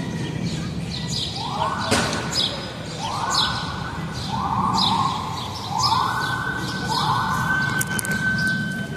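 A siren whooping, rising in pitch about five times in a row, and holding a steady tone near the end. Small birds chirp repeatedly over a steady low street rumble.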